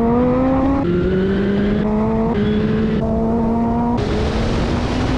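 Lotus Elise's Toyota 2ZZ-GE four-cylinder engine pulling hard under acceleration during an autocross run. The pitch climbs, falls sharply about a second in, then climbs again with a few smaller dips and steps as the driver works the throttle and gears.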